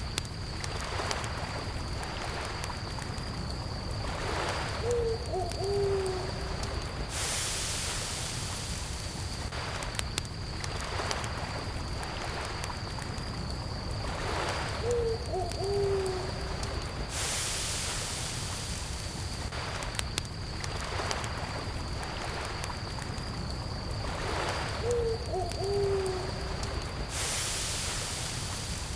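Campfire-and-lake ambience: a fire crackling with sharp pops, gentle lake water lapping in slow swells, and a constant high cricket trill. A short low animal call comes three times, about ten seconds apart, and a brief hiss rises three times.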